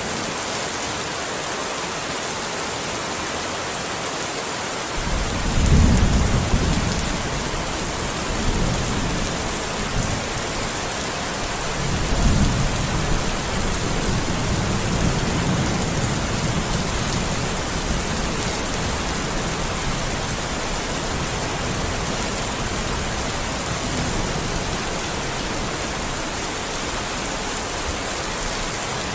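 Steady rain hissing. Thunder rumbles in about five seconds in, rolls again around twelve seconds, and dies away slowly into the rain.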